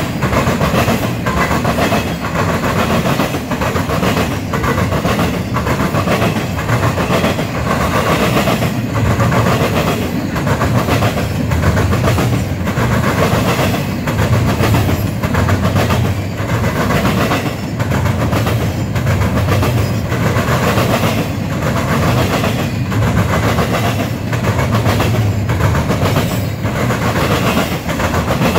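Cars of an intermodal freight train rolling past, wheels clacking in a steady rhythm over the rail joints.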